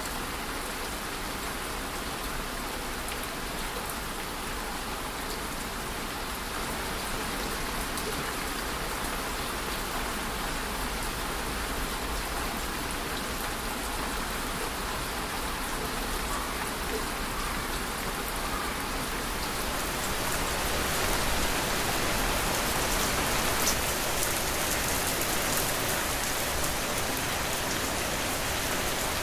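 Steady rain falling and pattering on a surface, an even hiss with fine drop ticks, growing somewhat heavier about two-thirds of the way through.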